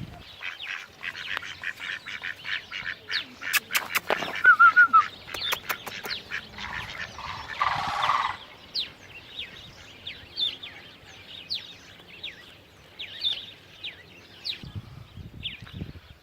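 Birds calling, with many short, sharp chirps repeating throughout and a brief warbling call about four and a half seconds in. A run of loud, sharp clicks between about three and a half and five and a half seconds in is the loudest sound.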